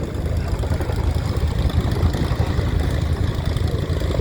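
Boeing Chinook twin-rotor helicopter displaying: a steady, loud low rumble from its rotors and engines.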